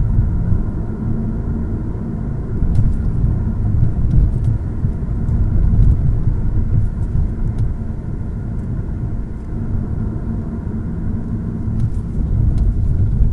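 Road and engine rumble inside a moving Lada Vesta Cross, picked up close to the floor, with a few faint, scattered clicks from the body. The owner is hunting these clicks and suspects badly glued glass or poor welding.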